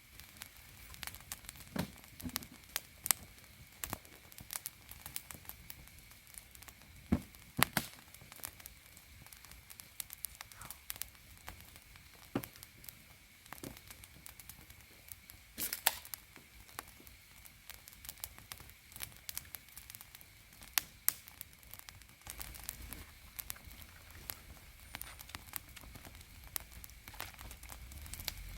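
Wood campfire crackling, with irregular pops and snaps, a few of them much louder than the rest.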